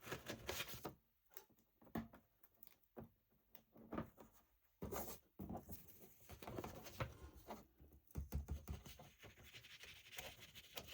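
Paper being cut and handled: intermittent soft scrapes, rustles and small clicks as excess paper is trimmed off a taped journal page.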